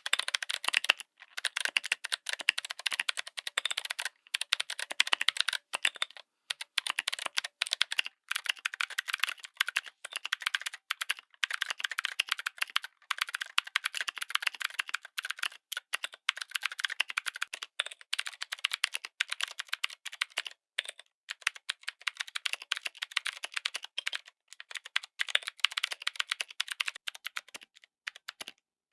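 Typing on a mechanical keyboard fitted with clicky switches: a rapid, continuous stream of sharp, bright clicks in bursts, with short pauses between runs.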